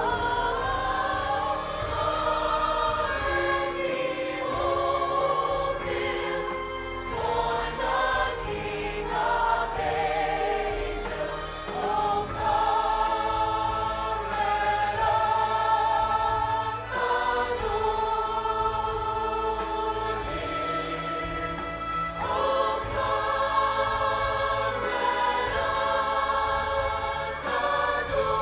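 Church choir singing a slow hymn-like song with instrumental accompaniment, voices holding long notes with vibrato.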